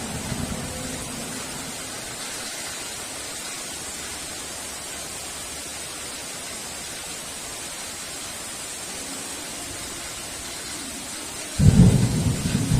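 Heavy rain falling in a steady hiss. A thunder rumble dies away in the first second, and a sudden loud clap of thunder breaks in near the end.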